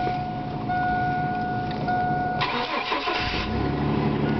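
Cold start of a 1999 Chevrolet Blazer's 4.3-litre V6: a steady electronic warning tone sounds on and off with the key on, then the starter cranks for about a second and the engine catches and settles into a steady idle.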